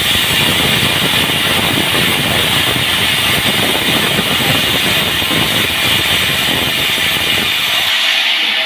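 Sawmill machinery running steadily, a dense hissing, grinding mechanical noise over a low rumble; the low rumble drops away near the end.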